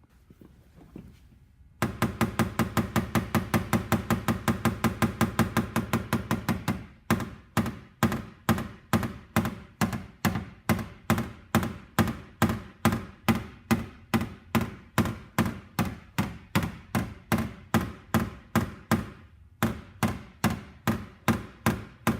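Paintless-dent-repair hammer tapping on a car's steel door skin to blend the dent. It opens with a fast run of light taps, several a second. From about seven seconds in it slows to about two or three taps a second, with a short pause near the end. Each tap rings briefly.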